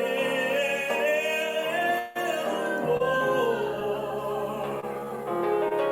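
Live worship singing with music: voices stretch out the word "reign" in long, drawn-out notes, with a brief break about two seconds in.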